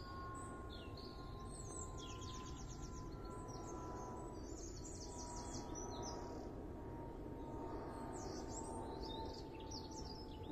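Songbirds singing: several quick phrases of high chirps and rapid trills, with short gaps between them. Under them, a steady low background rumble and a faint steady hum that slowly drops in pitch.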